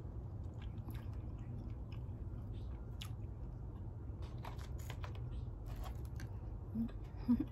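A person chewing and biting food close to the microphone, with scattered small clicks and crunches, over a steady low hum. There are two brief low sounds near the end, the louder just before it ends.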